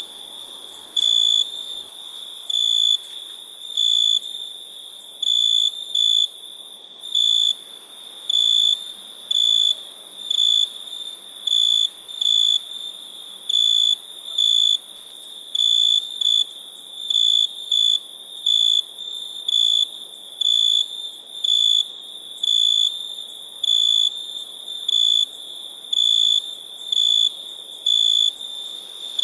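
Crickets chirping at night: a continuous high-pitched trill with a louder chirp pulsing regularly, about once a second, over a fainter, higher hiss of other insects.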